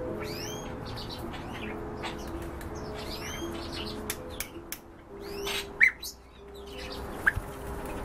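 Cage birds chirping and twittering in many quick, short, falling chirps, with a louder sharp call a little before six seconds in and another just after seven.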